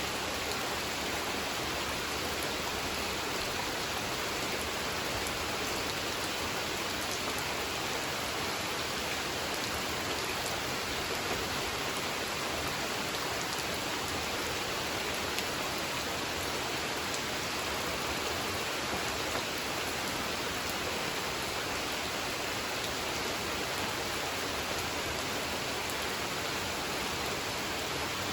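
Steady rain falling on a pond and its surroundings, an even hiss of many drops with occasional louder individual drips.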